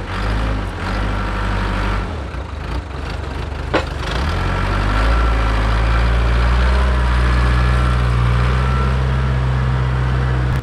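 Heavy diesel engine of farm earthmoving equipment running steadily under load, with a single sharp knock about four seconds in.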